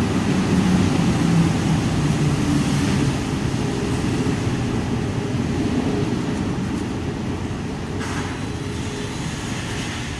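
WashWorld Razor in-bay car wash machinery running with a steady low rumble and hiss that slowly dies away.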